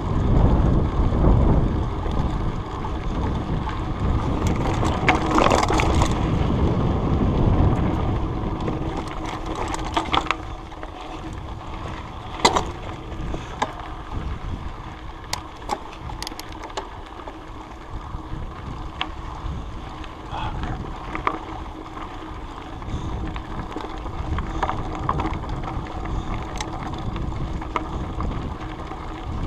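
Mountain bike being ridden along a dirt trail, heard from a loosely strapped chest-mounted action camera. There is wind buffeting and a rumble from the tyres and frame that is heavy for about the first ten seconds and then eases, with scattered sharp clicks and rattles from the bike.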